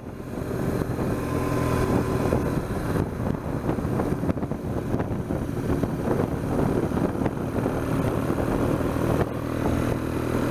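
BMW R1200GS boxer-twin engine running steadily at road speed, with wind and road noise around it.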